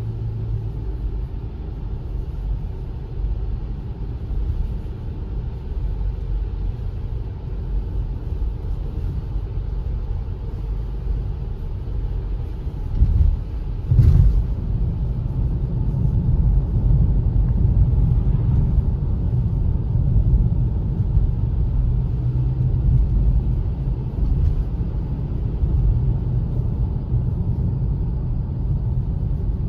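Car driving with a steady low rumble of engine and road noise, and a single brief thump about halfway through.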